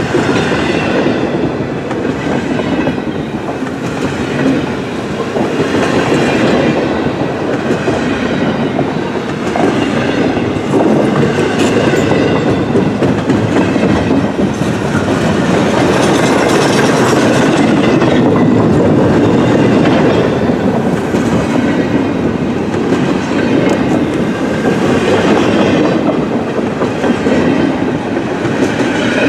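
Double-stack intermodal freight train's well cars rolling past at speed: a loud, steady rolling rattle and clatter of steel wheels on the rails.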